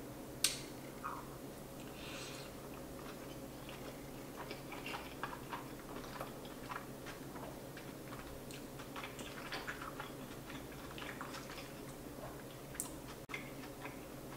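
A person chewing soft, cheesy pasta close to the microphone: faint wet mouth sounds and many small irregular clicks, with a couple of sharper clicks, one about half a second in and one near the end.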